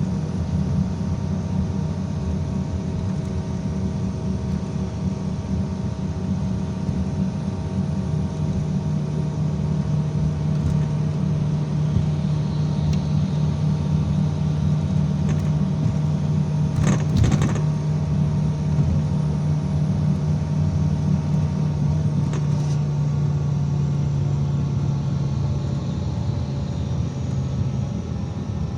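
IVECO Crossway 13M PRO city bus under way: a steady low engine and drivetrain drone over road noise. The drone's low note drops away near the end. A short rattle or clatter comes about two-thirds of the way through.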